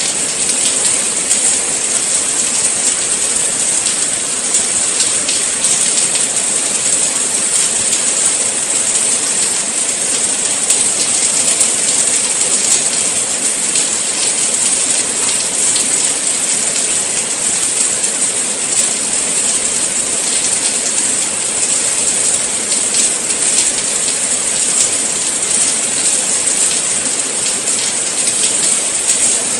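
Steady rain falling, an even hiss made of countless fine drop patters, with no let-up or change.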